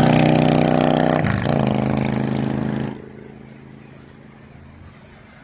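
Motor vehicle engine running loudly close by at a steady pitch, which dips briefly about a second in, then cuts off suddenly about three seconds in, leaving quiet outdoor background.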